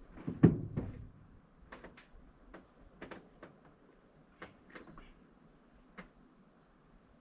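Scattered knocks and sharp taps, the loudest a dull thump about half a second in, followed by lighter clicks every half second or so.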